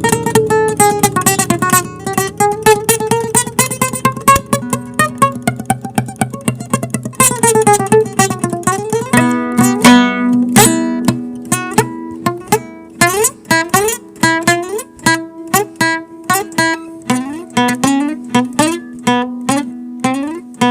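Instrumental acoustic guitar music. For the first half, a sustained melody slides up and down over full chords. From about nine seconds in, it changes to a run of quick, separately plucked notes.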